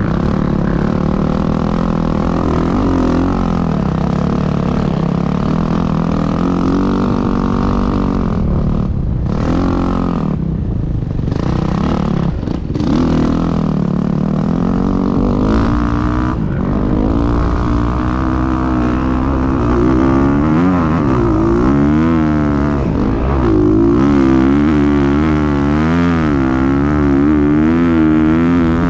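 Dirt bike engine running hard, its pitch rising and falling with throttle and gear changes. It drops off briefly a few times about ten to thirteen seconds in. Over the last several seconds it rises and falls quickly as the throttle is worked.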